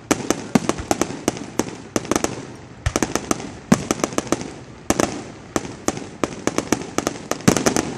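Aerial firework shells bursting overhead: a quick, irregular run of sharp cracks and bangs, several a second, with short echoing tails.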